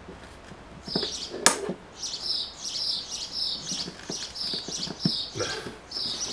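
A small bird chirping over and over, about two short high chirps a second, with one sharp click about one and a half seconds in and a few soft knocks.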